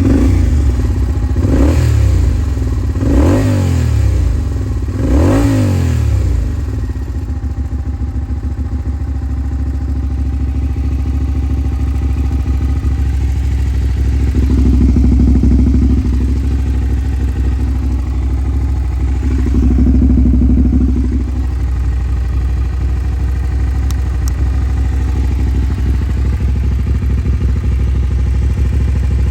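Suzuki SV400S 90-degree V-twin running through a KENZ SPORTS aftermarket muffler. It is blipped four times in quick rising-and-falling revs in the first six seconds, then settles to a steady idle, with the revs raised briefly twice later on.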